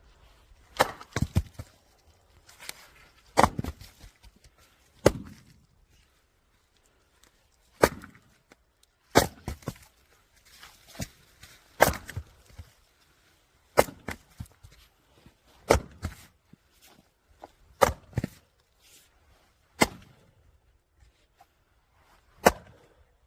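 Firewood being split: a series of sharp wooden cracks and knocks, one every second or two, with no motor running between them.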